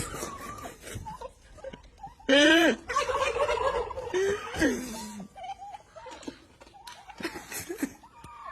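Turkeys gobbling, a loud rattling gobble about two seconds in followed by more calls, then fainter calls toward the end.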